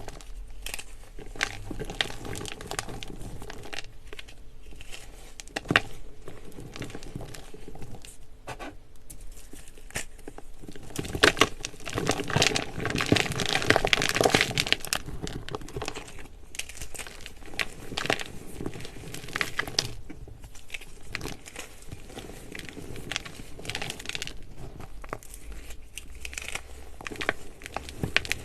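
Baking soda being crushed and crumbled: a dense, irregular dry crackling and crunching, heaviest and loudest for a few seconds around the middle.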